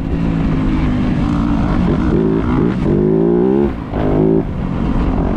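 Dirt bike engine running hard on a trail, its pitch rising and falling as the throttle opens and closes, with a brief drop in revs a little past halfway before it climbs again.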